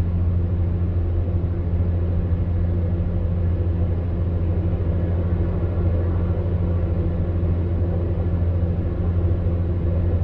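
Electric fan heater running steadily: a low, even hum of the fan motor with a second, higher hum line over a soft rush of blown air.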